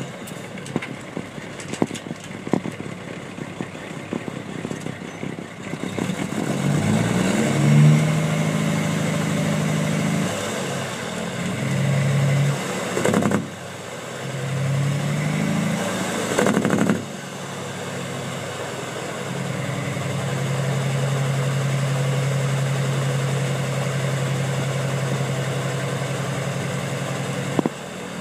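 Kenworth T400's straight-piped Cat diesel engine, loud. It runs rough and crackly at first, then revs up in pitch twice, each time dropping off suddenly, then runs at one steady pitch.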